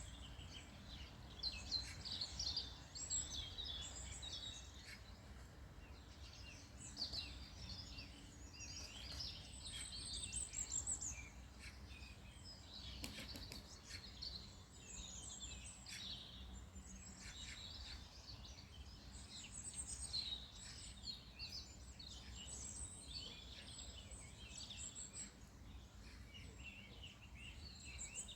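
Several songbirds chirping and singing, with many short, quick high calls and trills overlapping throughout, over a faint low steady rumble.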